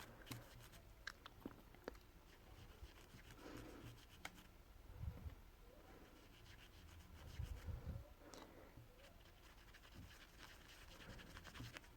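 Near silence with faint scratching and rubbing and scattered small clicks, with a few soft low thumps about five and seven seconds in: a cotton swab and tweezers working at the neoprene surface of a wetsuit.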